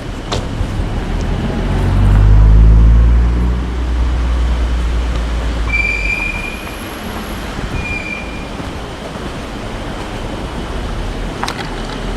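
A motor vehicle engine over steady road rumble, swelling loud for about two seconds near the start and then easing back to a steady drone.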